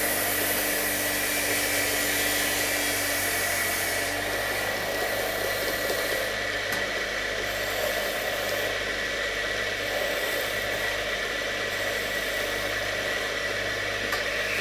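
Lathe running steadily, a motor hum with a high whine, and a hiss during the first few seconds that then stops.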